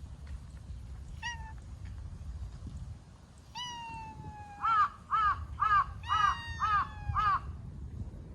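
An animal calling outdoors: one short call, then a long, slightly falling call, followed by six quick arched calls about two a second.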